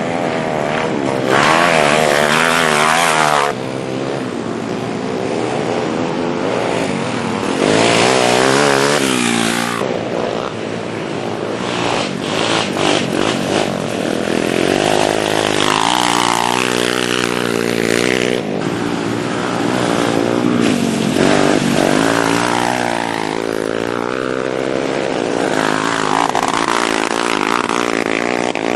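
Minibike (pit bike) engines revving up and down under throttle, the pitch rising and falling as they accelerate and back off, with more than one engine heard at times. There are louder full-throttle bursts about two seconds in and again around eight seconds in.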